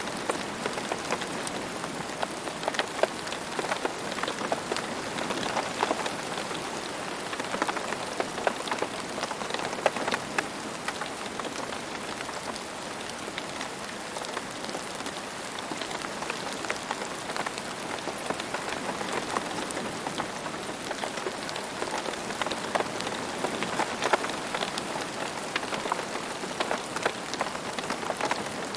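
Steady rain falling on a hard surface, a dense even patter of many individual drops with no thunder.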